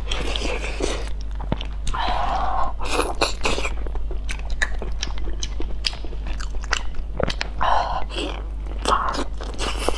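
Close-miked eating of glazed grilled eel: chewing with wet mouth clicks and smacks, and a few louder bites into the eel near the end, over a steady low hum.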